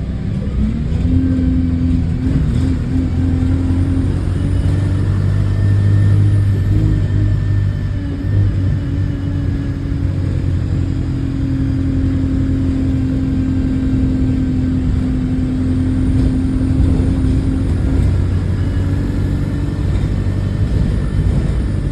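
Diesel engine of a London bus heard from on board, rising in pitch about a second in and then running steadily under load as the bus drives, with the puffing of an exhaust leak.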